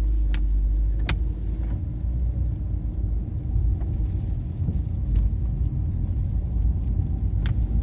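Strong wind gusts make a heavy low rumble that comes in suddenly at the start. A few sharp taps sound over it, like debris or drops striking glass.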